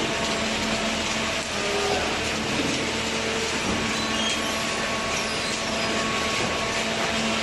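Commercial cardboard baler running, a steady mechanical noise with a constant low hum.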